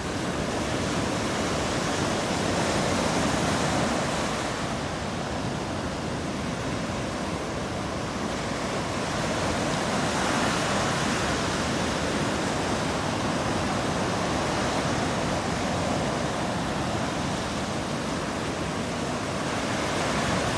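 Ocean surf breaking on a sandy beach, a continuous wash of waves that swells and eases every few seconds.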